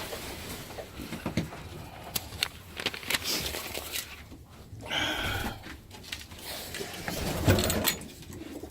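Pigeons stirring in a loft: scattered knocks, scrabbling and rustling, with a short burst of wing flapping about five seconds in.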